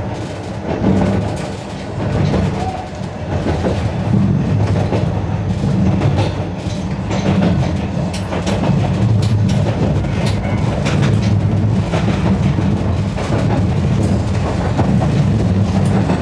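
Narrow-gauge electric train running along the track: a steady low rumble with the clickety-clack of wheels over rail joints.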